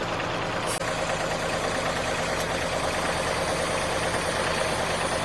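Heavy vehicle engine idling steadily, with one faint click about three-quarters of a second in.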